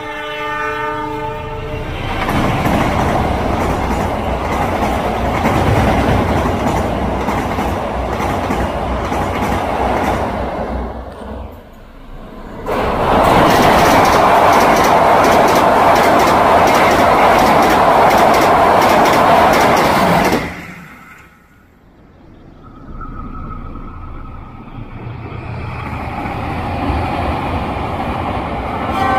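Passenger train's horn ending about a second in, then the steady rumble and clatter of the train passing. A louder passage of coaches rolling across a steel girder bridge stops suddenly, followed by a quieter rumble of a train crossing the bridge further off.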